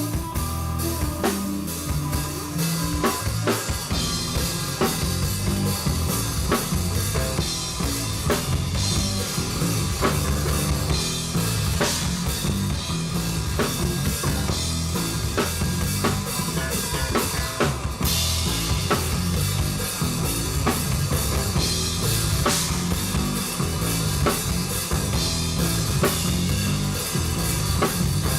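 A band playing live: a busy drum-kit beat, with kick and snare, over a moving bass line.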